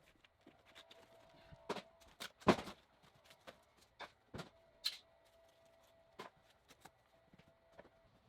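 Scattered knocks and clicks at irregular intervals, the loudest a thump about two and a half seconds in, over a faint steady hum.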